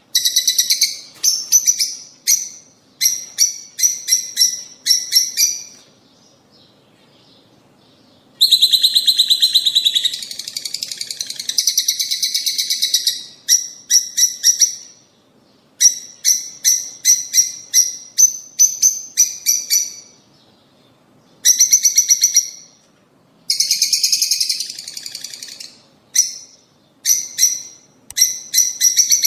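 Lovebirds calling: bursts of rapid, sharp, high-pitched chirps, with dense chattering about nine seconds in and again near twenty-four seconds, and a couple of short pauses between.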